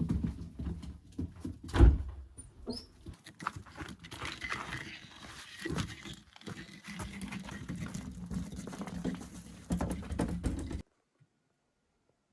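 Irregular rustling and knocking, with one loud thump about two seconds in; the sound cuts off abruptly near the end.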